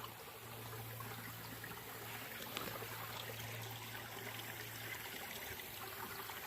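A creek running low on water, trickling steadily, with a faint steady low hum underneath.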